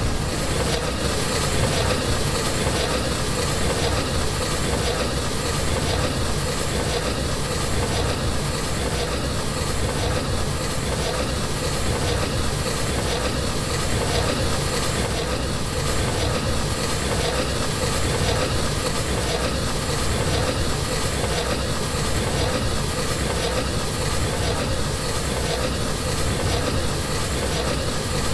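Train running along the track with a steady rumble and wheel noise on the rails.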